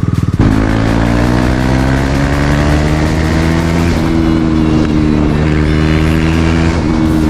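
KTM Duke 390 single-cylinder engine with its muffler removed, straight-piped, opening up about half a second in from a low pulsing putter to a steady high-revving run. Its pitch climbs slowly for a few seconds, then holds, dipping briefly near the end.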